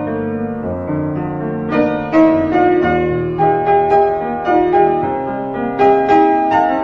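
Background piano music: a soft, slow-moving piece of sustained chords and melody notes.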